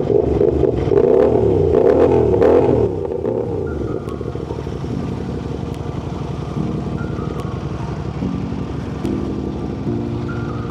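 Ducati Panigale V4 engine revving hard, its pitch climbing and dropping through the gears, for about the first three seconds. Then music with a steady beat of stepped notes takes over.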